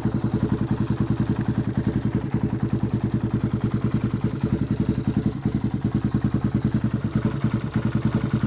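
Big-bore 440 Honda TRX400EX ATV's single-cylinder four-stroke engine idling steadily, with even exhaust pulses about ten a second.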